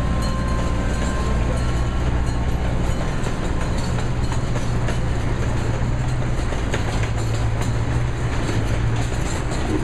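Passenger train running along the track, heard from on board: a steady low rumble and rush of noise with faint scattered clicks from the wheels, and a faint high tone that fades out in the first two seconds.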